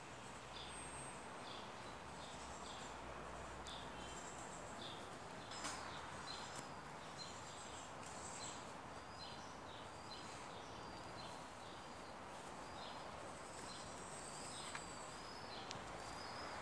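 Small birds chirping in short, repeated high chirps over a faint steady background hiss. A sharp click about five and a half seconds in, and a smaller one near the end.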